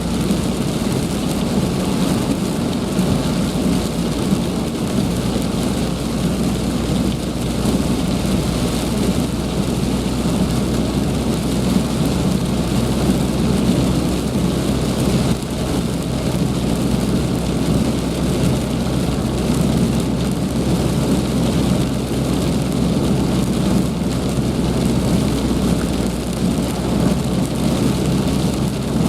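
Heavy rain falling steadily, a loud, even hiss that does not change.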